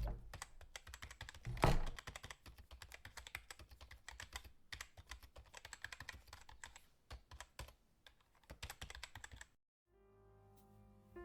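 A rapid, irregular run of small clicks and taps, with louder knocks at the start and just under two seconds in. The clicking stops near the end, and soft music follows.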